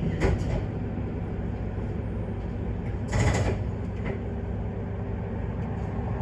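Steady low rumble of a diesel railcar heard from inside the car, with a couple of clicks right at the start and a short hiss about three seconds in.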